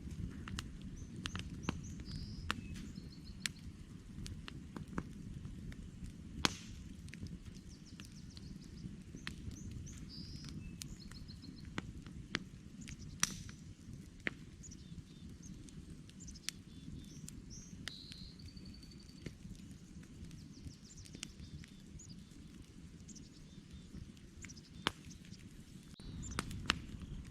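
Campfire of burning wood logs crackling, with irregular sharp pops over a low steady rush. Small birds chirp in short, repeated phrases in the background.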